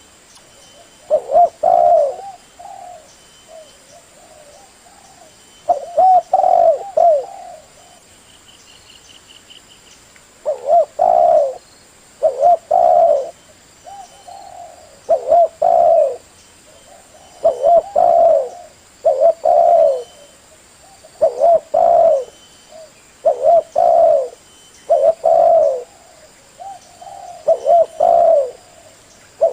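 Male spotted dove (tekukur) cooing loudly in repeated phrases, a fresh phrase every second or two, with a couple of longer pauses; a lure call used to draw in other spotted doves.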